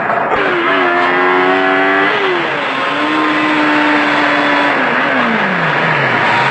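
Car engine pulling hard under acceleration, its pitch rising and then dropping sharply at a gear change about two seconds in. It holds steady, then winds down from about five seconds in and picks up again at the end, over heavy wind and road noise.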